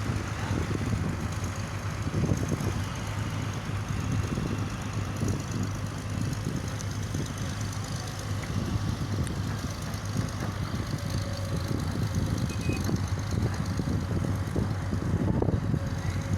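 Excavator's diesel engine running steadily with a low drone, with irregular knocks and clanks over it.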